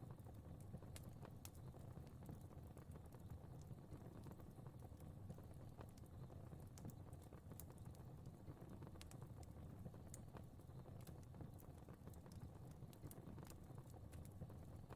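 Wood fire crackling softly in a fireplace: a low steady rumble of flames with scattered sharp pops and snaps at irregular intervals.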